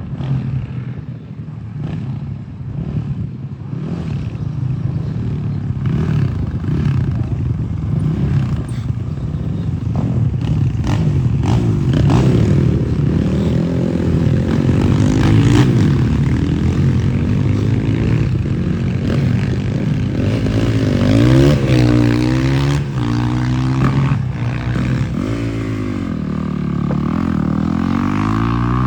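M2R XTR 250 enduro dirt bike engine running, steady at first, then revved up and down several times in the second half, with a few sharp clicks early on.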